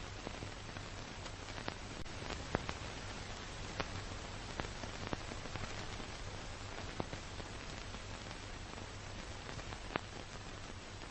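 Steady noise of a car driving, with a low hum underneath and scattered sharp ticks at irregular moments.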